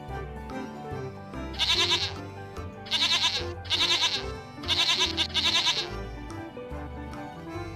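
Goat bleating: five short, quavering bleats in two groups about a second apart, over steady background music.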